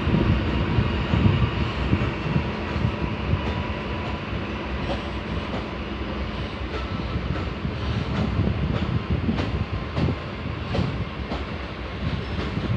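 An empty train rolling past, with a steady rumble and scattered clacks of its wheels.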